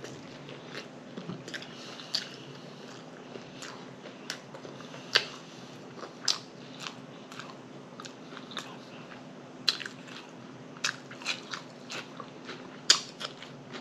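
Close-miked chewing of a bun-less double cheeseburger: wet crunches and mouth clicks at an irregular pace, with a couple of louder crunches about five seconds in and near the end.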